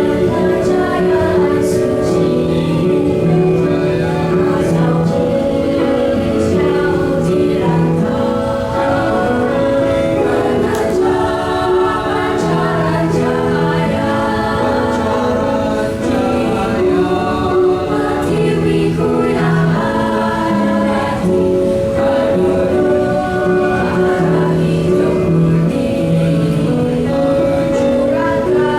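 Small mixed vocal ensemble singing a Malay song in harmony, with the voices in separate parts.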